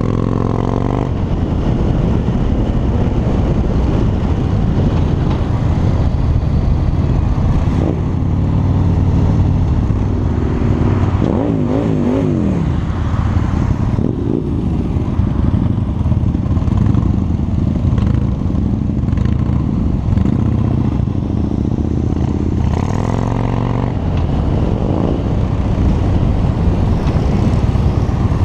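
Harley-Davidson V-twin motorcycle engine running under way, its pitch rising and falling a few times as the bike speeds up and slows.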